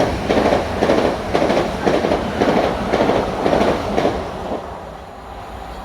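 A train running through the station, its wheels clattering over the rail joints in a steady beat of about two a second, dying away after about four and a half seconds.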